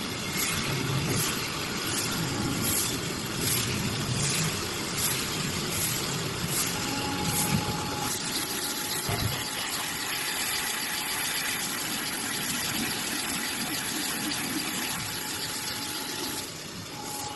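CNC pipe collaring machine running, a steady mechanical noise. Short regular hisses come a bit more than once a second through the first half, then give way to a steady run with a faint whine.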